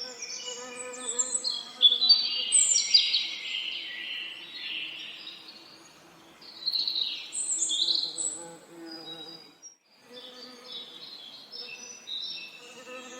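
Songbirds singing in quick overlapping phrases over the steady hum of buzzing bees. The birdsong is loudest about two to three seconds in and again around seven to eight seconds, and all sound drops out for a moment near ten seconds before resuming.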